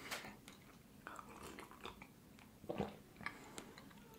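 Faint close-miked chewing with the mouth closed: scattered soft smacks and clicks, with a slightly louder cluster a little under three seconds in.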